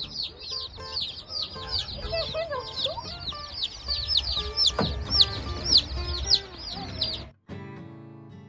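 A crowd of broiler chicks peeping rapidly and continuously, many high, downward-sliding cheeps overlapping. About seven seconds in, the peeping cuts off abruptly and acoustic guitar music takes over.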